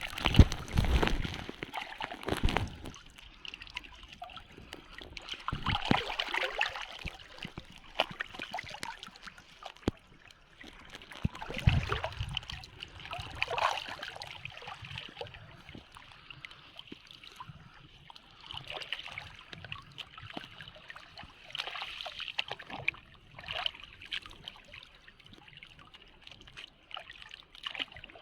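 Shallow sea water splashing and sloshing in irregular surges around people wading with a drag net.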